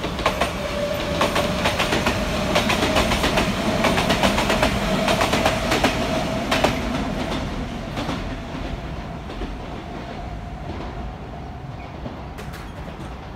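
Kintetsu electric train running past on elevated track, its wheels clacking rapidly over the rail joints, with a steady whine that rises slightly in pitch. The sound builds, then fades after about eight seconds as the train moves away.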